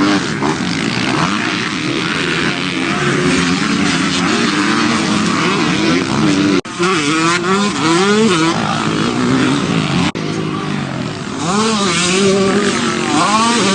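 Motocross dirt bikes revving hard and shifting up and down through the gears, the engine pitch rising and falling repeatedly. The sound breaks off abruptly twice, about halfway through and about three-quarters through.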